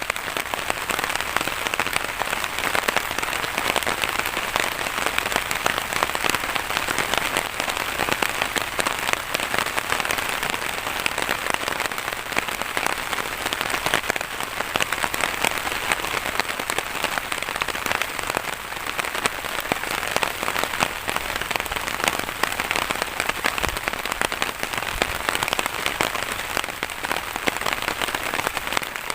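Steady heavy rain, a dense patter of drops that holds unchanged throughout.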